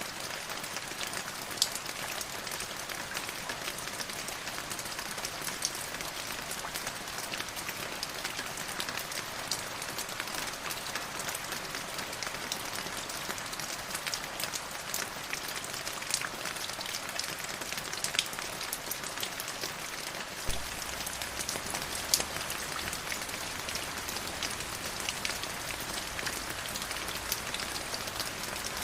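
River water flowing and splashing: a steady hiss full of small, sharp droplet ticks.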